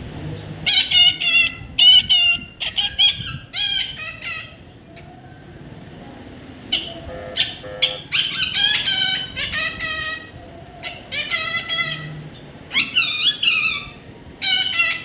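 A baby parrot calling: repeated high, wavering squawks in three spells, with short pauses between them.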